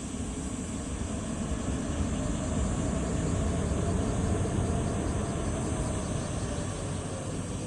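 Airbus A320neo airliner's Pratt & Whitney geared turbofan engines rumbling during the landing. The noise swells to its loudest about halfway through and then eases off.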